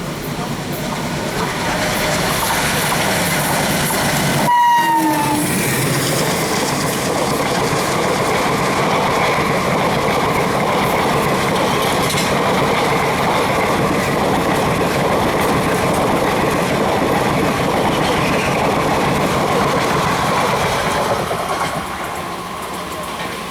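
WDM-3D diesel locomotive and its express train passing at speed: a short blast of the horn about five seconds in, its pitch dropping as the locomotive goes by, then a long steady rumble and clatter of the coaches' wheels on the rails that eases off near the end.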